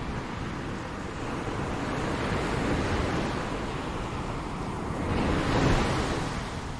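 Ocean waves breaking and washing on the shore, one wave building to a louder surge about five seconds in and then receding.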